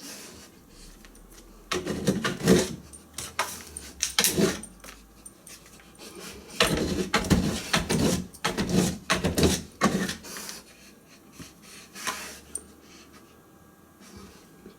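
A Saint Bernard panting in irregular bouts as it moves and sniffs about, with a metallic jingling mixed in.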